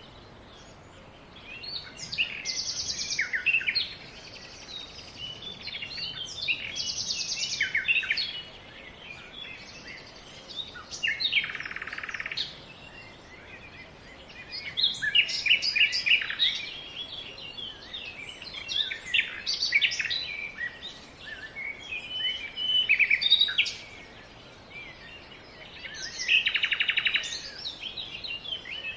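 Songbirds singing, several overlapping voices in short high-pitched phrases and chirps, with a fast buzzy trill recurring every few seconds.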